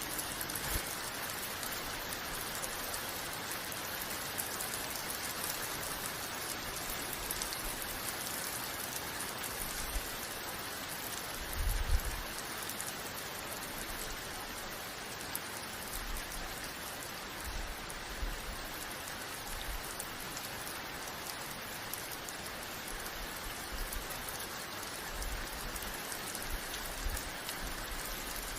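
Steady rain falling and pattering on surfaces, an even hiss with no let-up. A few low thumps sound over it, the loudest about twelve seconds in.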